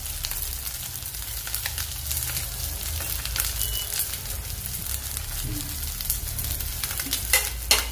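Small fish and greens sizzling and crackling in hot oil in an aluminium kadai over a gas flame, a steady hiss dotted with fine pops, with a couple of sharper clicks near the end.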